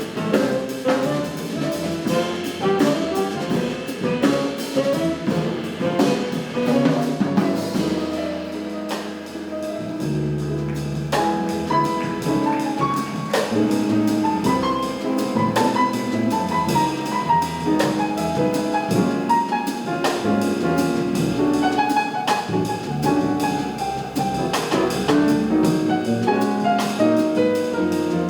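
Live jazz quartet playing an up-tempo tune: saxophone, piano, double bass and drum kit together, quick melodic lines over a walking bass and steady cymbal work.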